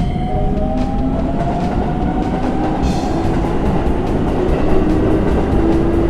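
Train running on the rails, a steady rumble with some rhythmic clatter, under background music.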